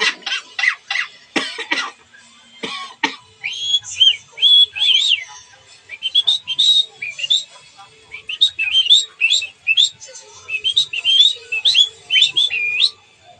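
Talking pet bird calling: a few short harsh sounds in the first three seconds, then a long series of short rising whistled notes, several a second.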